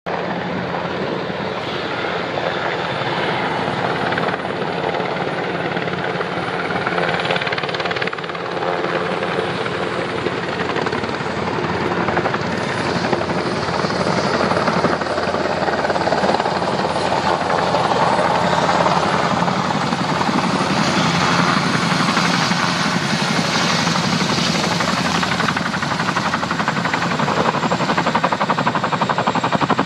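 CH-47 Chinook tandem-rotor helicopter running close by: a steady, loud din of turbines and a rapid rotor-blade chop, growing a little louder in the second half.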